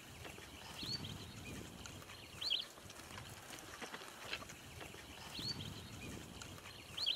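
A bird gives short, high chirps, some doubled, every couple of seconds over a faint low rustling background.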